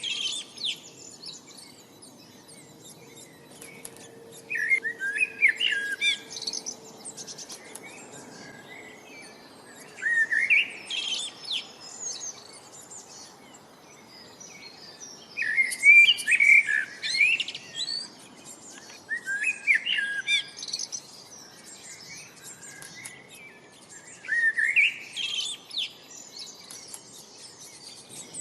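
Songbird singing a short phrase of rising notes over and over, about every five seconds, with softer high chirps from other birds between the phrases.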